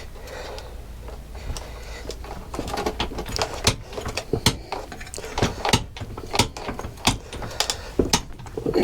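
Irregular metal clicks, knocks and rattles as a Kawasaki GTR 1000 motorcycle frame is wiggled up and down against the engine to line up the bottom engine-mounting bolt holes. The knocks come faster after about three seconds.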